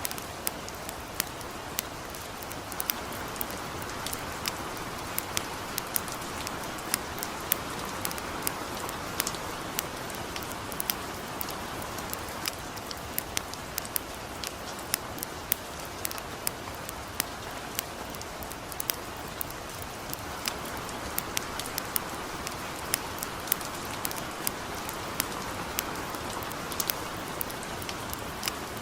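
Steady light rain hiss with frequent sharp, irregular crackles and pops from a burning campfire.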